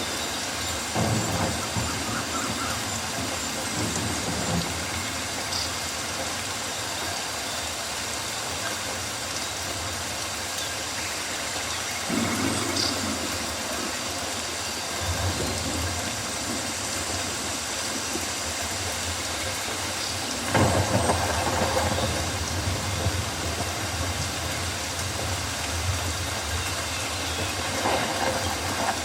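Steady rain falling on rainforest foliage, a constant hiss, with low rumbles swelling up and fading several times.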